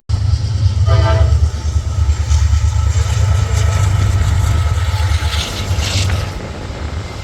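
Norfolk Southern diesel locomotive passing, a heavy, steady low engine rumble. About a second in there is a brief pitched sound.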